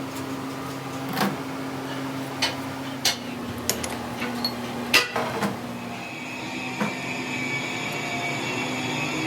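Irregular sharp metallic knocks and taps, like hand tools striking metal parts during a repair, over a steady machine hum. A steady high whine comes in about six seconds in.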